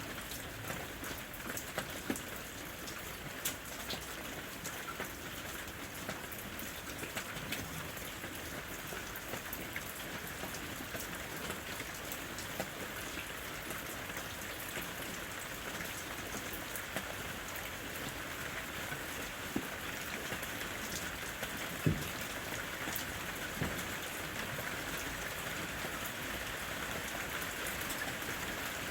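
Steady rain falling in a forest, an even hiss with scattered individual drops tapping and a few louder drips now and then.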